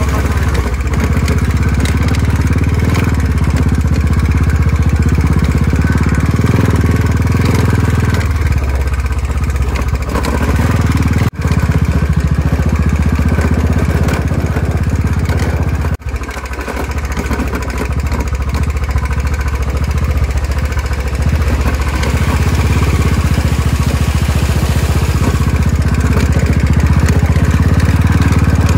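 Motorcycle engine running steadily while riding. The sound cuts out very briefly twice, about a third of the way in and again a little past halfway.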